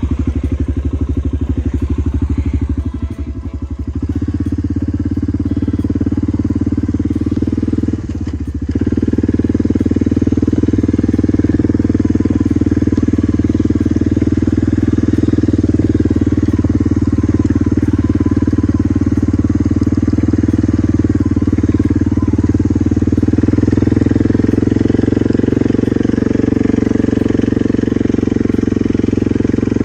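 Vehicle engine running steadily as it drives over farm ground, with brief dips in level about three and eight seconds in, like a let-off or gear change.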